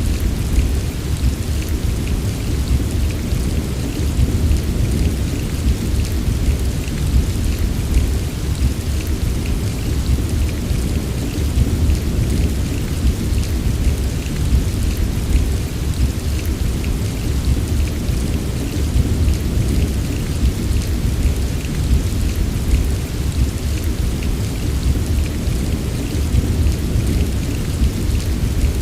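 Steady heavy rain, a dense patter of drops over a constant deep rumble, with no single loud crack.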